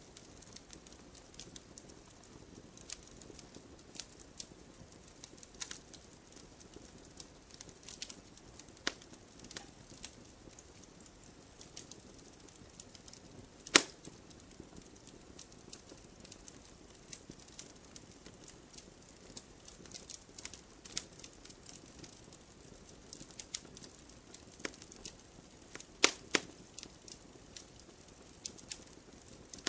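Bonfire crackling: irregular small snaps and pops over a soft steady hiss, with a few much louder pops, one about halfway through and two close together near the end.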